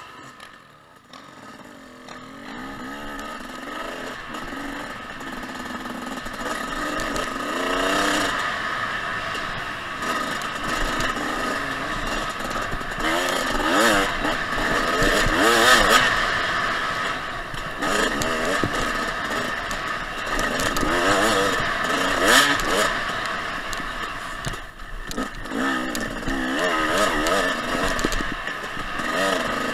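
Two-stroke dirt bike engine, a 2014 Husqvarna TC 250, revving up and down as the rider accelerates and backs off along the trail, its pitch rising and falling again and again. It starts quiet for the first second or two, then grows louder, with occasional knocks and clatter from the rough ground.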